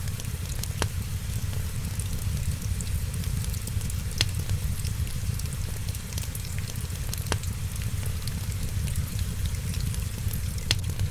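Wood fire crackling and hissing over a steady low rumble, with four sharp pops spaced a few seconds apart.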